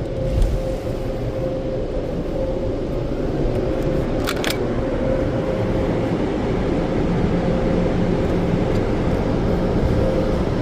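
Premier car-wash air dryers blowing on the car: a steady rush of air with a constant hum, building slightly over the first few seconds. A couple of short clicks come about four seconds in.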